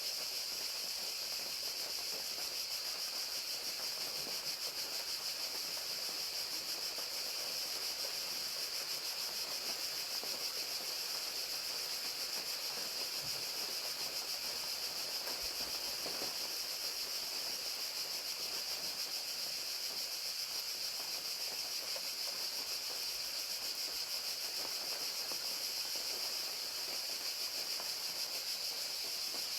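Crickets chirring in a steady, continuous high trill, over the soft even hiss of falling rain.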